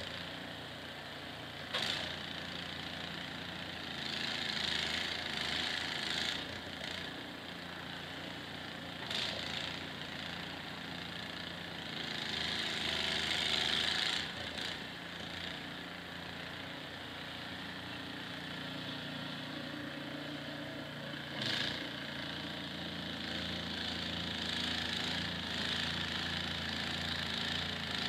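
Small snowblower engine running steadily, with louder hissing surges every few seconds.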